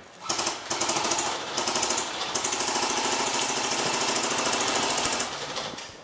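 Airsoft electric gun firing full-auto: a few short bursts, then one long burst of about three seconds, each a rapid, even rattle of shots.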